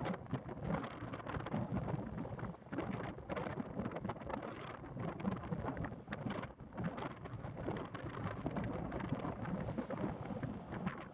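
Strong wind buffeting the microphone: a rough, gusty rumble with crackles, rising and falling in level.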